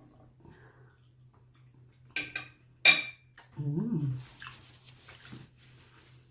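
Cutlery clinking against a plate a few times about two to three seconds in, the last clink the loudest, as a steak is cut and picked up. A short low vocal sound follows.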